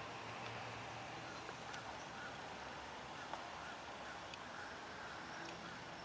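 Faint bird calls, short and scattered, over a steady outdoor background hiss.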